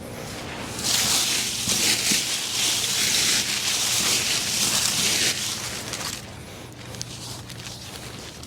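Leaves rustling as they are gathered and moved, loudest for about four seconds starting about a second in, then softer.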